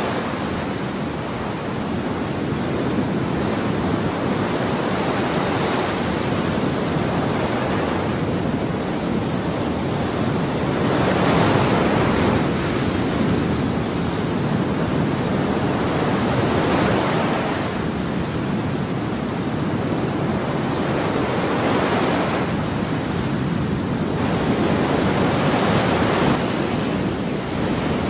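Ocean waves breaking and washing on a shore, a continuous rush of surf that swells every few seconds as each wave comes in.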